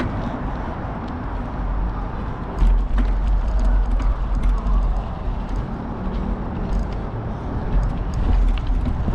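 Heavy wind rumble on a bike-mounted GoPro microphone, mixed with tyre noise and small clicks and rattles from a bicycle being ridden along.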